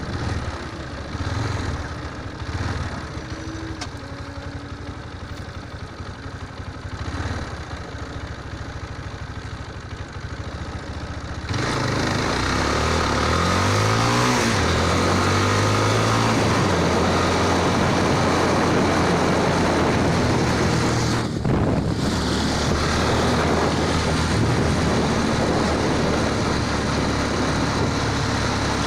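Motorcycle engine running at moderate revs. About twelve seconds in, the sound suddenly gets louder and the engine revs up with a climbing pitch, then holds a steady higher speed under a broad rush of noise.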